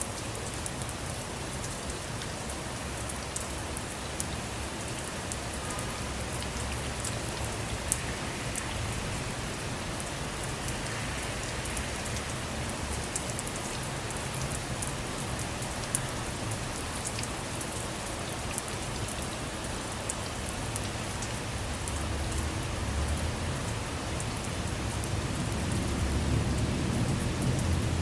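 Steady rain falling on a car, a dense hiss with individual drops tapping sharply now and then. A low rumble swells near the end.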